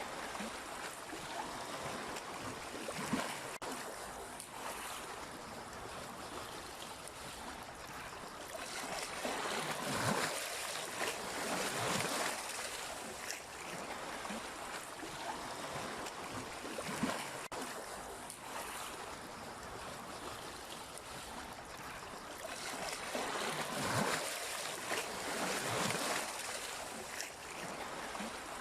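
Sea waves washing in: a steady rush of surf that swells and eases, with louder surges about ten seconds in and again near the end.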